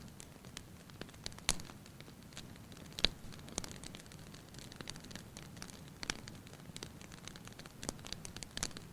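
Fireplace fire crackling: irregular sharp pops over a soft steady hiss, with the loudest pop about three seconds in.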